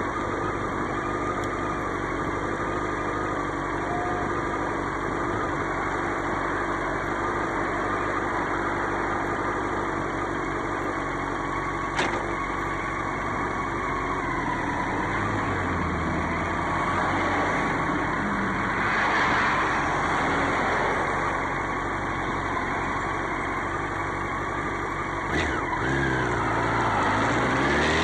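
Motorcycle engine running steadily, with a sharp click twice, then revving up and rising quickly in pitch near the end.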